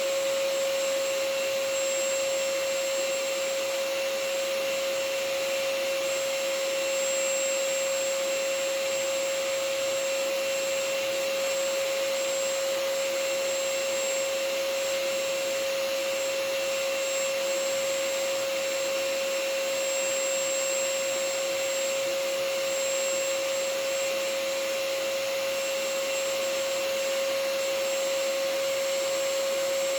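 Vacuum cleaner running steadily: a constant rushing hiss with a steady motor whine.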